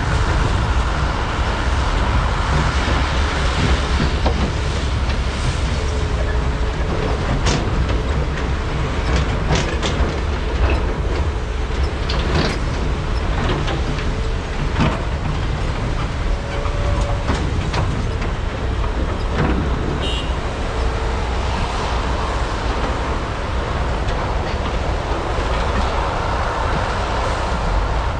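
Diesel engines and hydraulics of large excavators (a Komatsu PC395 and two SANY SY485H) running steadily under load while digging and loading, with scattered sharp clanks and knocks from the machines at work.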